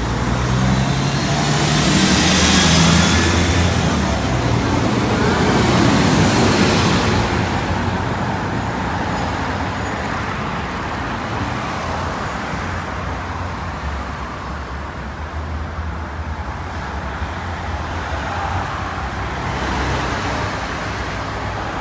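Steady road traffic noise, with vehicles passing close by about two to three seconds in, again about six seconds in, and once more near the end.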